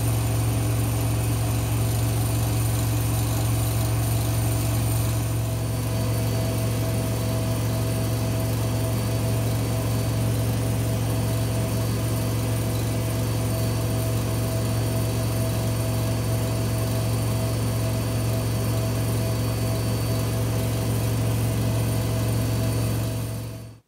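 A laundry machine's motor running steadily with a strong hum and a few steady whining tones, stopping abruptly just before the end.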